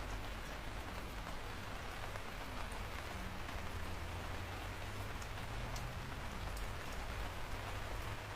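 Steady rain, a continuous hiss with scattered sharp drop ticks and a low, even rumble underneath.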